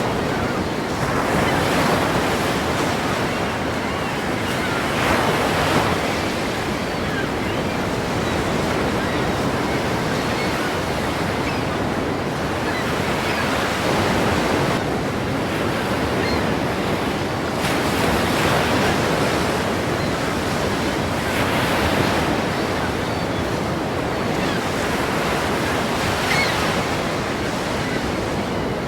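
Ocean waves breaking and washing in, a steady roar of surf that swells with each wave every few seconds, with wind on the microphone.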